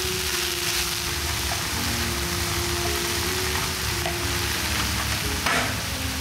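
Garlic chives sizzling in a nonstick frying pan as they are stirred with a silicone spatula, a steady hiss with a sharp knock about five and a half seconds in. Soft background music with held notes plays underneath.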